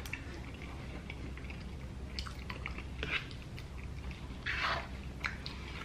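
Close-miked chewing of mouthfuls of loaded baked potato, with scattered small clicks of forks and a short hiss about four and a half seconds in.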